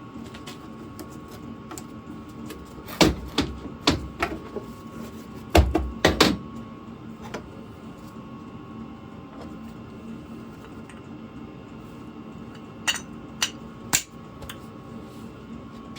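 Hammer blows and clanks on steel bar in a workshop vise: a quick cluster of strikes about three seconds in, another around six seconds, and three sharp knocks near the end, over a steady machine hum.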